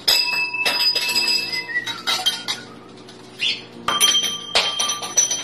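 A handful of sharp clinks as small hard objects of metal or glass are knocked about by a pet parrot, each clink leaving a short ringing tone.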